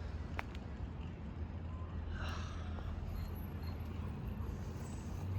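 Steady low rumble of street traffic, with a single sharp click about half a second in.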